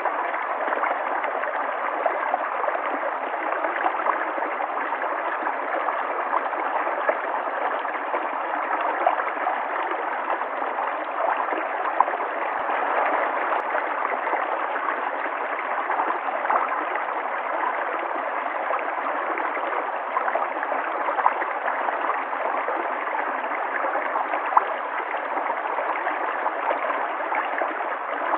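River water flowing steadily, a continuous rushing and gurgling with small splashes scattered through it.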